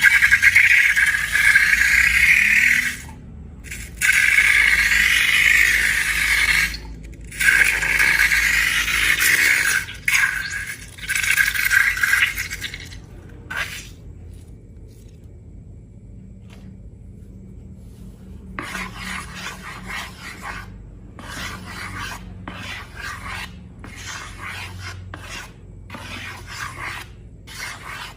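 Slime being worked and scraped during mixing: four long, loud scratchy scraping strokes, then a quieter pause. After that comes a run of softer, broken rubbing strokes.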